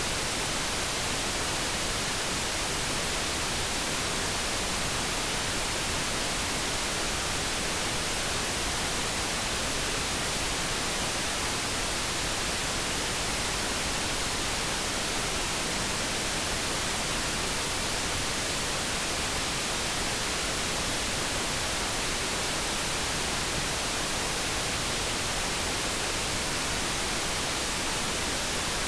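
Steady synthesized noise: an even, unbroken hiss with no tones or events in it.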